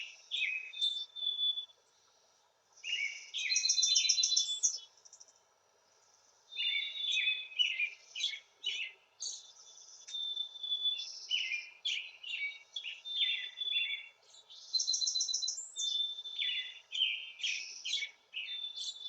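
Songbird song: bursts of rapid, varied chirps and high trills lasting a second or two each, separated by short pauses, with one trilled phrase recurring.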